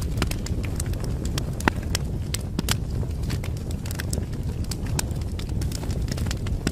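Wood fire crackling, with frequent sharp pops and snaps over a steady low rumble of the flames; one pop stands out louder about a second and a half in.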